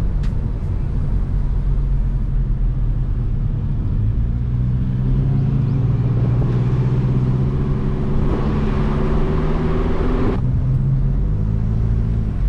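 1993 SAAB 900 Turbo S's 2.0-litre turbocharged 16-valve four-cylinder engine running while driving. It grows louder and fuller from about five seconds in, then drops back suddenly about ten seconds in.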